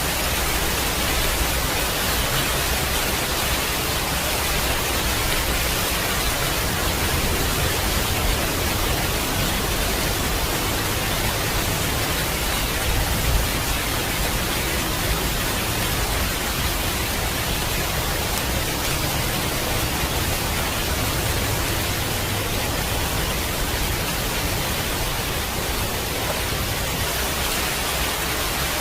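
Steady heavy rain, an even hiss with no break, with a low rumble underneath that swells and eases a few times.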